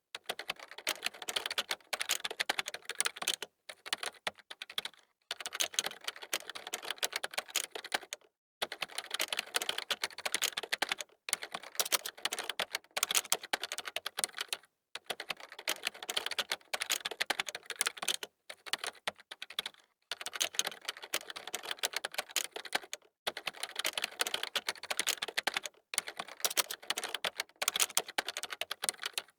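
Computer keyboard being typed on quickly, dense runs of key clicks broken by short pauses every few seconds.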